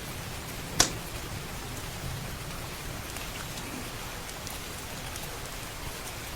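Steady rain, with a single sharp pop from a crackling wood fire about a second in and a few fainter ticks.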